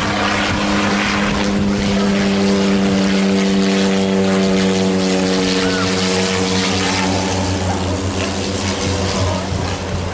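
Propeller airliner flying low overhead on its landing approach: a steady propeller drone that sets in about a second in, its pitch sinking slightly as it passes, fading near the end.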